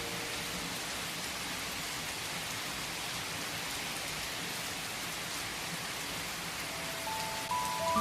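Steady rain falling in an even patter, with no music over it. Soft piano notes come back in near the end.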